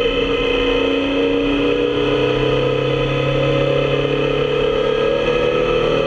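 Motorcycle engine running at a steady cruise, its tone drifting only slightly in pitch.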